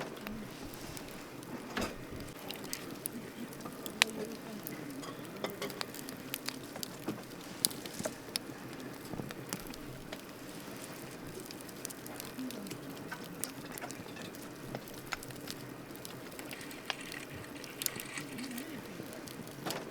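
Wood campfire crackling: irregular sharp snaps and pops over a steady low rustle of burning, with one loud pop about four seconds in and another a few seconds later.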